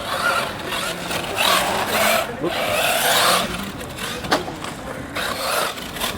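Electric 1/8-scale RC buggy (Kyosho Inferno MP9 with a brushless motor) running on a dirt track, its sound swelling and falling with the throttle, with a sharp knock a little over four seconds in.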